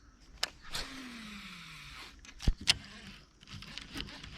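Fishing rod and reel handled on a kayak: scattered clicks and knocks, two sharp ones close together about two and a half seconds in, with a faint whine falling in pitch for about a second shortly before.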